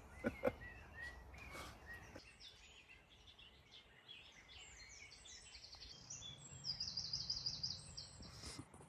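A songbird singing: a run of short, high notes that builds into a fast trill of repeated notes near the end. A few brief knocks sound in the first couple of seconds.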